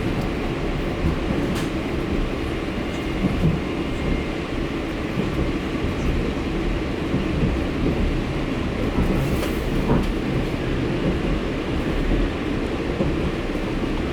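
TEP70BS diesel passenger locomotive under way: a steady low rumble of engine and running gear on the track, with a few faint clicks.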